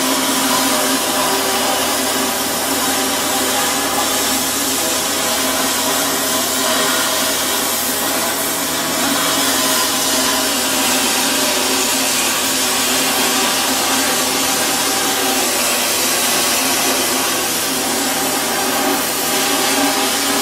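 Oxy-fuel cutting torch burning steadily as it cuts steel, a continuous hiss with a faint steady hum underneath.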